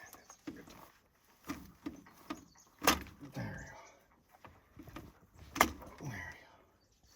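Sharp metallic clunks and clicks of tractor hydraulic hose quick-couplers being unplugged and pushed into the tractor's remote outlets. The two loudest knocks come about 3 and 5.5 seconds in.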